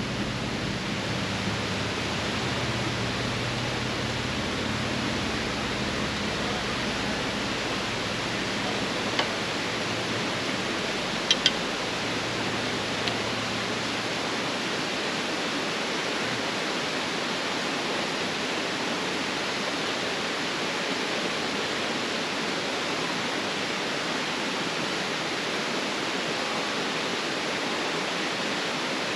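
Steady, even rushing noise, with a few faint sharp clicks near the middle.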